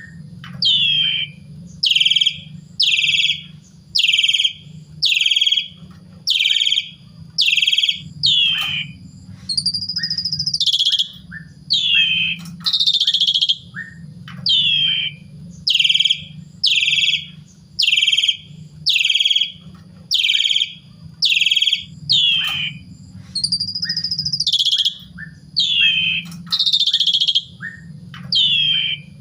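Asian pied starling (jalak suren) calling over and over, a loud short chirp about once a second, with two longer swooping whistles, about ten seconds in and again near twenty-four seconds. A faint steady low hum lies underneath.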